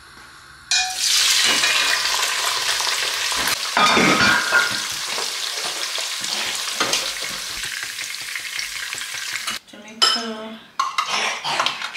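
Chopped onions hitting hot oil in a pot and frying with a loud, steady sizzle that starts suddenly about a second in. The sizzling cuts out about two seconds before the end.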